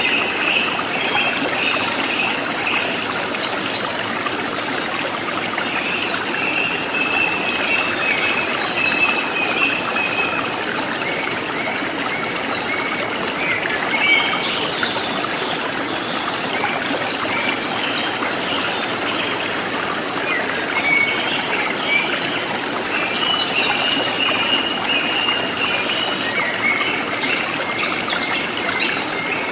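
Forest stream babbling and trickling steadily, with wild birds calling in short high chirps and warbles over it every few seconds.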